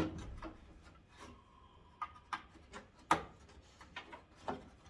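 Hard plastic parts of a pickup's headlight assembly rubbing and clicking as they are pried and pulled loose by hand. There are scattered sharp clicks, the loudest about three seconds in.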